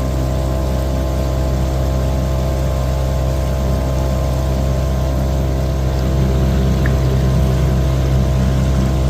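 Dinghy's outboard motor running steadily while the tender is under way, a constant engine hum with no change in pitch.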